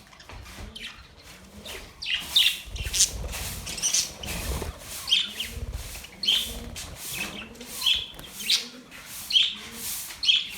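Budgerigars chirping: a run of short, sharp high chirps repeating about once or twice a second, starting after a quieter first two seconds, with a low rumble underneath for a few seconds in the middle.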